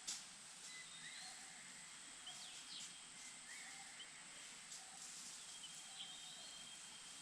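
Faint outdoor ambience with birds calling: short, thin whistled notes and chirps every second or so over a steady high hiss, with one sharp click just after the start.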